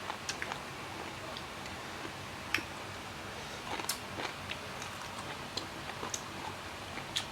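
Close mouth sounds of a person chewing sour mango, with irregular sharp crunches and wet clicks a few times a second at most.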